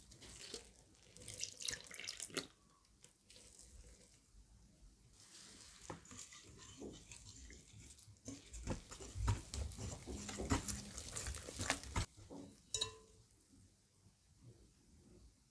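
Water splashing and sloshing in irregular bursts, with scattered light clicks and knocks.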